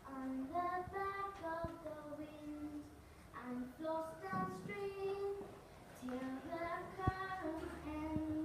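Children's voices singing a slow melody with long held notes. A sharp click comes about seven seconds in.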